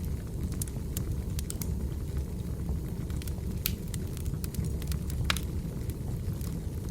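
Wood fire crackling: irregular sharp pops and snaps over a steady low rumble of burning, with one louder pop a little past the middle.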